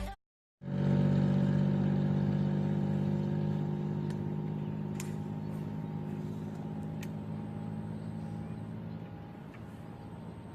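A motor running at a steady pitch, slowly fading away, with a few faint clicks.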